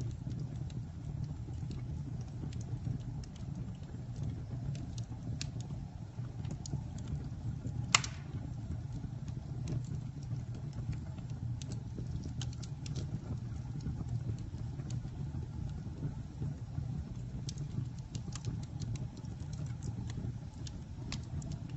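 Campfire burning with a steady low rumble and scattered crackles, and one sharp, louder pop about eight seconds in.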